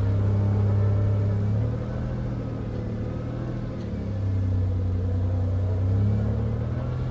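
Vehicle engine running steadily while driving. The drone drops about two seconds in and builds back up about four seconds in as the throttle changes.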